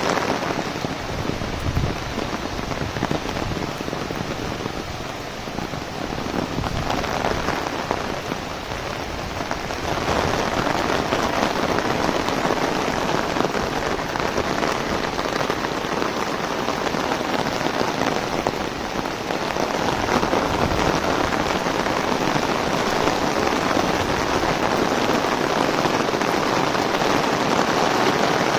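Heavy rain falling on an umbrella overhead, a dense steady hiss that grows louder about ten seconds in and again around twenty seconds in.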